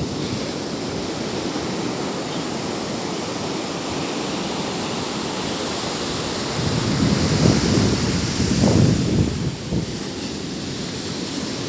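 Sea waves washing on the shore, a steady surf noise with one louder surge of a wave breaking in the second half. Wind buffets the microphone.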